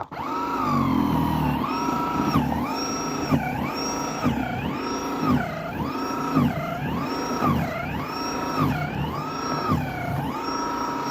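Battery-powered snow thrower's electric motor whining, its pitch dipping and recovering about once a second as it is loaded and unloaded in the snow.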